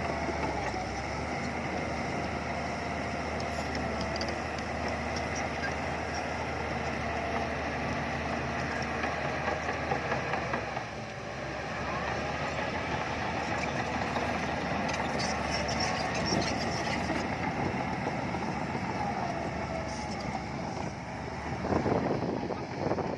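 Diesel engines of heavy earthmoving machinery at work, a bulldozer and dump trucks, running steadily. The sound dips briefly about eleven seconds in and grows louder and more uneven near the end.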